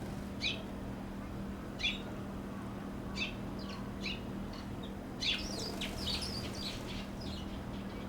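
Small songbirds chirping: single short, high chirps about every second and a half, then a quick flurry of chirps about five seconds in. A steady low hum sits underneath.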